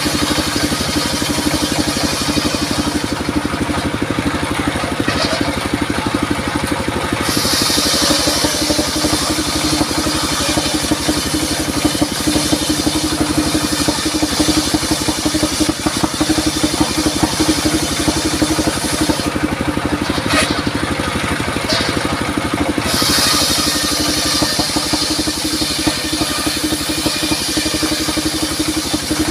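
Circular saw running steadily with its motor or engine, and the blade cutting through durian wood in two long passes, the first from about seven seconds in for some twelve seconds, the second from about 23 seconds in until near the end.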